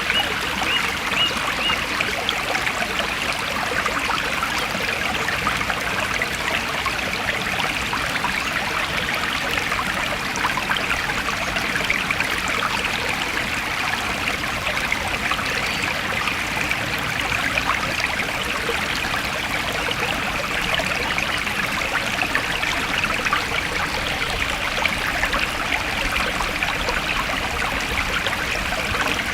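Forest stream flowing steadily, the water trickling in an even, unbroken rush.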